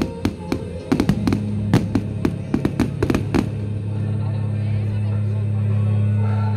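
Fireworks display: a rapid volley of sharp bangs and cracks over the first three and a half seconds, then thinning out. Under the bangs runs music with a held low note.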